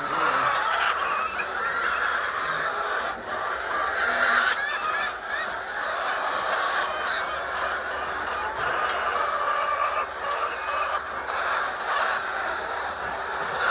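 A flock of chickens calling together in a continuous, overlapping chatter.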